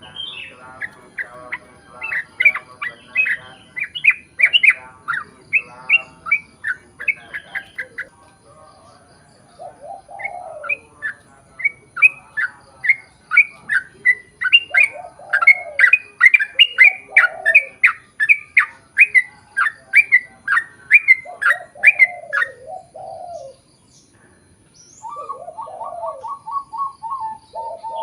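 Yellow-vented bulbul singing long, fast runs of bright chirps, in two bouts split by a short pause. Lower, throatier call phrases come in several times alongside, and a quicker chatter of lower notes starts near the end after a brief lull.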